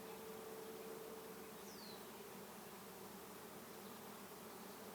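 Honey bee swarm in flight: a steady, faint hum of hundreds of bees buzzing in the air.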